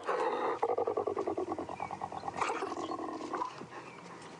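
Spotted hyena giggling: a rapid, pulsed cackle of about ten notes a second lasting about three seconds, with a few higher yelps mixed in, then fading. It is the fearful, submissive call of a hyena being mobbed by wild dogs.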